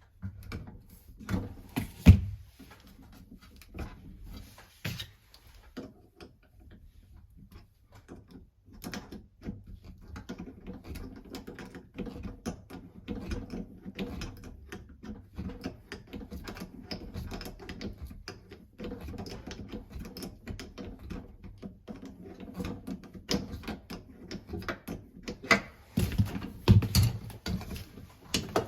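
Irregular clicks, taps and knocks of tools and faucet parts being handled during a repair of a washing-machine tap, with a louder knock about two seconds in and a run of louder knocks near the end, over a faint steady hum.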